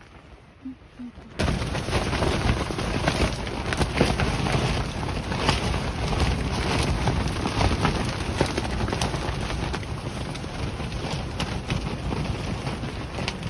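Strong gusting wind buffeting the microphone: a loud rushing noise full of crackling pops that starts suddenly about a second and a half in and keeps on.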